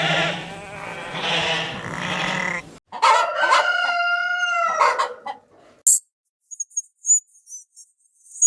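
A rooster crowing once, a long held call starting about three seconds in, after a couple of seconds of dense, noisy farmyard sound. Near the end come a few faint, very high short chirps.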